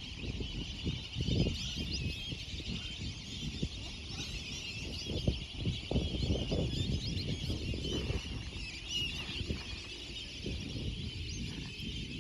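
A dense chorus of many birds calling at once, with many short chirps overlapping without a break, over a low uneven rumble.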